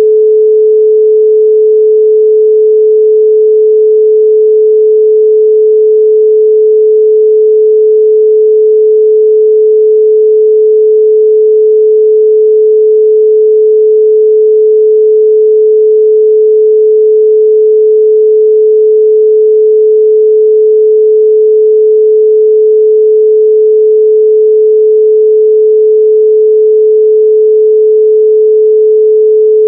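A steady, loud 432 Hz pure sine tone, one unwavering pitch with no other sound.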